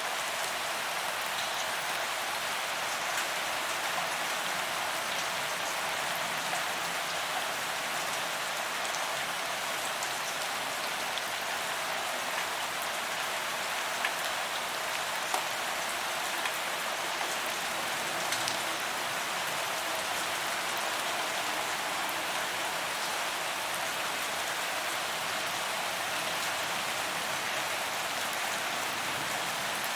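Steady rain falling on a paved promenade, an even hiss with scattered individual drops ticking, a couple of them a little louder near the middle.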